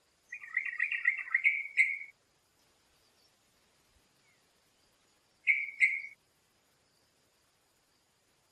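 A songbird singing: a bubbly, warbled phrase lasting about two seconds, then a pause and two short notes in quick succession.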